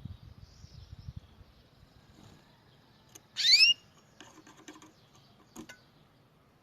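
A bird gives one loud, rising chirp about half a second long, a little past halfway. Around it are faint rustling and a few light ticks and clicks.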